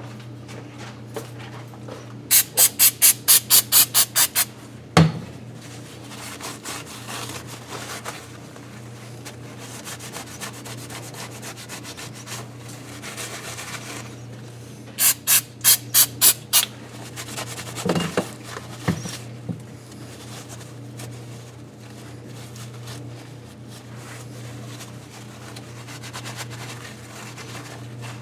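Hand cleaning on an engine cylinder head: two runs of quick, loud hissing strokes, about four a second, one early and one about halfway, with rubbing and a few knocks between, over a steady low hum.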